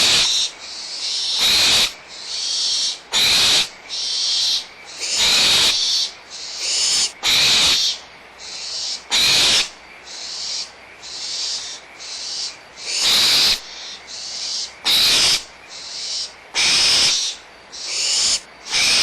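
Barn owl nestlings giving their rasping, hissing begging calls over and over, about one a second, with louder and softer hisses alternating.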